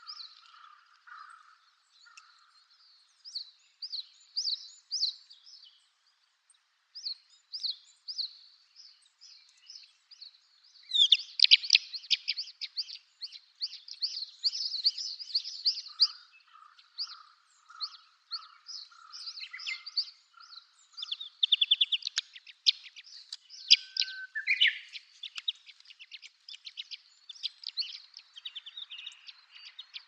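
Small birds chirping in quick series of short, high notes, busiest from about a third of the way in, with one rising whistle near the end. A lower, evenly pulsing trill comes in at the start and again midway.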